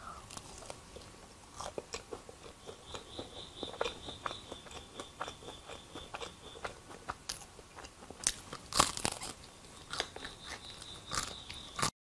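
Crisp, irregular crunching and chewing from bites of a breaded cheese hot dog on a stick, the loudest crunches about nine seconds in. It cuts off suddenly near the end.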